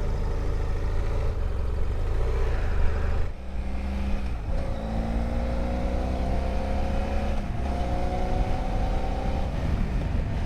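Motorcycle engine pulling away and accelerating, its pitch rising through the gears, with breaks for gear changes about three and a half and seven and a half seconds in.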